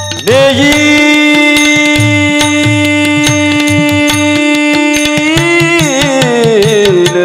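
Devotional kirtan music: a singer holds one long note for about five seconds, then slides down through an ornamented melodic line, over steady mridang and tabla strokes.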